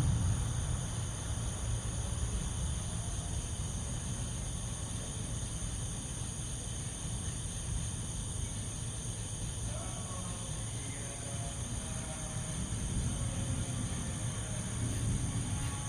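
Thunder rolling in a long, low rumble after a nearby lightning strike. It is loudest at the start, eases, then swells again near the end, over a steady high chirring of insects.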